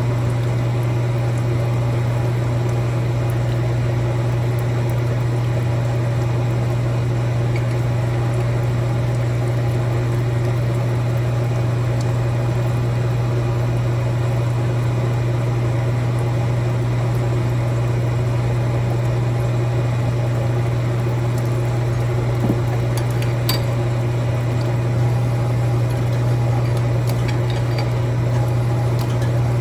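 A shop machine's electric motor running with a steady, unchanging hum, with a few light metallic clinks a little over twenty seconds in.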